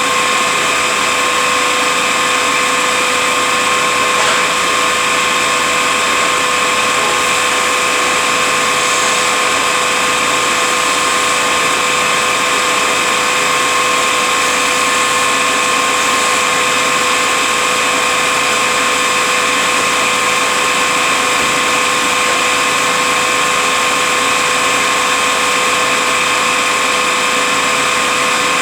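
Rebuilt Eaton Fuller FRO-16210C ten-speed truck transmission running on a dynamometer test stand, giving a steady mechanical whine at a constant pitch with no change in speed.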